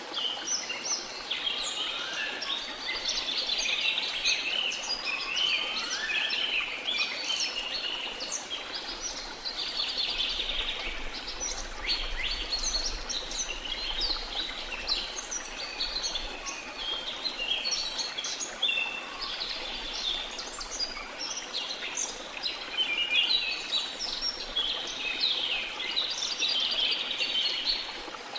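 A dense chorus of rainforest birds chirping and calling continuously, with a few rising whistled calls in the first several seconds, over a steady rush of waterfall noise.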